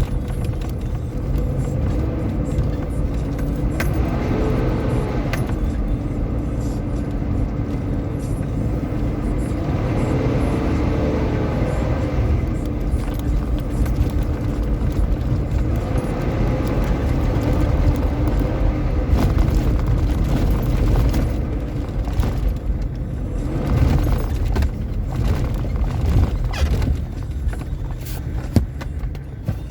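Off-road vehicle's engine running under load while driving on desert sand, the engine note rising and falling three times. Knocks and rattles come through in the second half.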